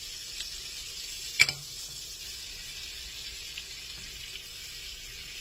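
Butter and flour sizzling steadily in a skillet as a roux begins to cook. A single sharp click, the loudest sound, comes about a second and a half in.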